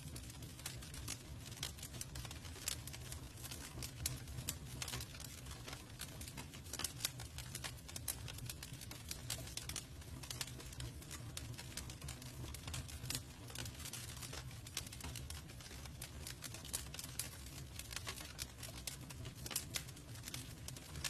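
Campfire crackling: a dense, irregular run of small sharp snaps and pops from the burning wood over a steady low rumble of the fire.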